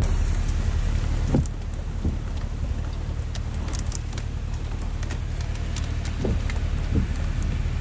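Storm noise: a heavy low rumble, with scattered sharp ticks of drops striking a hard surface.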